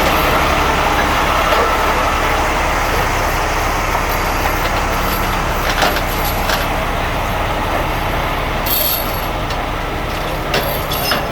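Heavy truck diesel engine running steadily, with a short hiss about nine seconds in.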